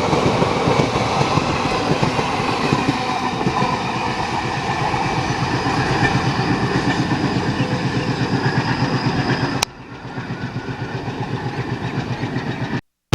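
Passenger train rolling past at speed: a rapid, rhythmic clickety-clack of coach wheels over rail joints. About ten seconds in the sound drops abruptly and the clatter carries on quieter, building again, before cutting off just before the end.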